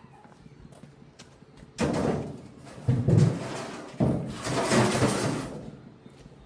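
Three heavy knocks, each one followed by rough scraping noise lasting a second or more. The middle knock is the deepest thud.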